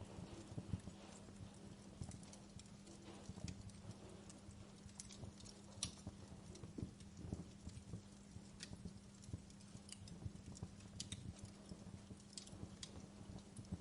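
Campfire burning, with irregular crackles and sharp pops from the wood, a few louder snaps among them, over a low steady hum.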